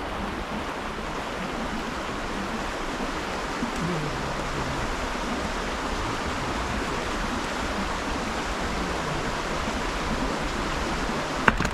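Running water, a steady rushing noise without a break, with a low rumble underneath.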